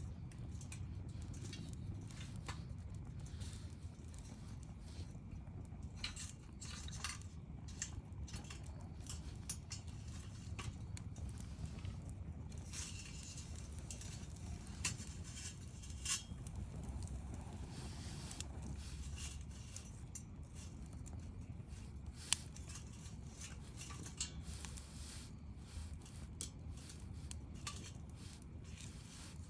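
Wood bonfire crackling: scattered sharp pops and snaps over a low steady rumble, with one louder pop about three-quarters of the way through.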